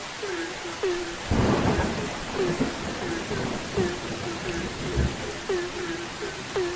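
Frogs calling over steady rain: short croaks that drop in pitch, about three a second. A rumble of thunder comes about a second in, and a short crack of thunder near five seconds.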